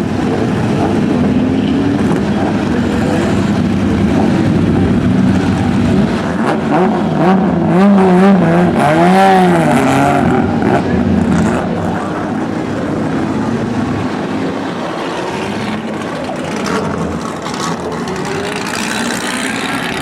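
Race car engines running hard as the cars pass on the circuit, several engines rising and falling in pitch together. The sound is loudest about eight to ten seconds in, then settles to a more distant drone.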